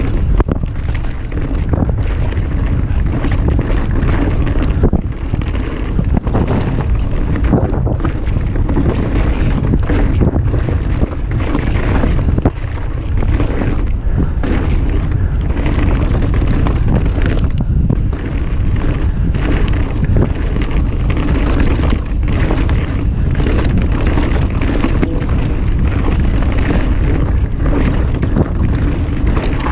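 Wind buffeting an action camera's microphone on a fast downhill mountain-bike run, with tyres on dirt and frequent clicks and rattles from the bike over rough ground.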